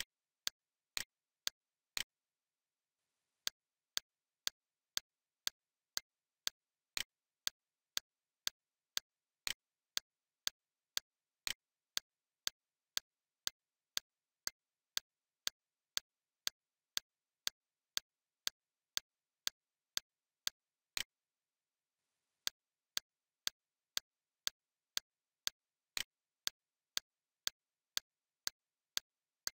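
Short, sharp ticks, evenly spaced at about two a second, against near silence. The ticking stops for a second or so twice, once about two seconds in and once about twenty-one seconds in.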